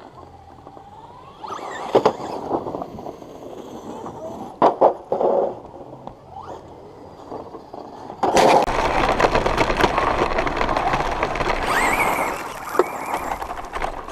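Electric RC truck driving, its motor whine rising and falling in pitch, with sharp knocks about two and five seconds in. From about eight seconds in, loud rolling and scraping of its wheels as it speeds along.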